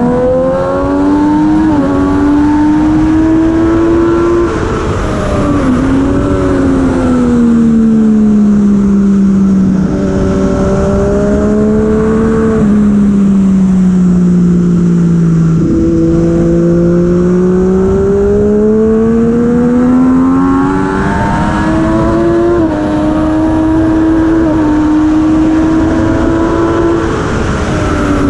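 Heavyweight superbike engine at racing speed: its pitch climbs and falls repeatedly as it accelerates and brakes, with sudden steps where gears are shifted. Wind rushes steadily underneath.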